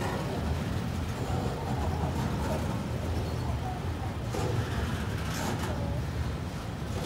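Freight cars rolling past on the rails: a steady low rumble of steel wheels on track as empty flatcars go by, with a couple of brief hissing swells about halfway through.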